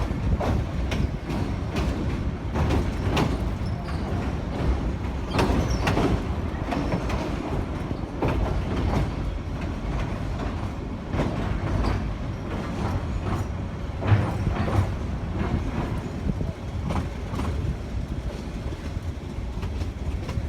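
Railway coach running on bumpy metre-gauge track: a steady low rumble with irregular clattering and knocks of the wheels over the rail joints, one louder bang about two-thirds of the way through.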